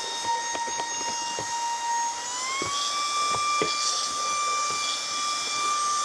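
Bayu handheld cordless car vacuum cleaner running with a steady motor whine that rises in pitch a little over two seconds in and holds there, with scattered ticks of grit being sucked through the nozzle.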